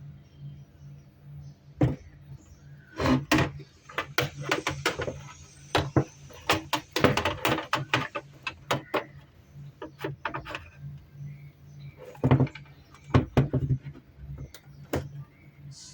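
Irregular sharp clicks and knocks, as of small hardware being handled, in clusters over a steady low hum.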